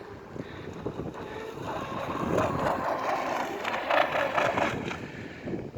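Wind buffeting the microphone while an RC boat's 2446 2200 kV brushless inrunner motor, on a 3S battery, drives the hull through the water. The boat gets louder from about two seconds in and eases off shortly before the end.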